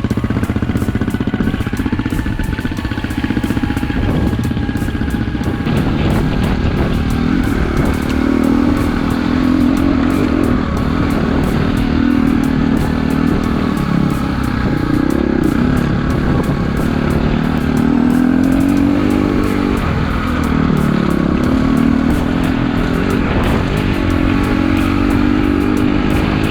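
KTM EXC-F single-cylinder four-stroke dirt bike engine running under way, its pitch rising and falling as the throttle opens and closes.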